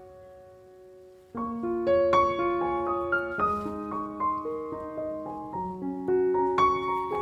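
Background piano music, soft and tender: a lingering note fades almost away, then a new phrase of single notes and chords begins about a second and a half in.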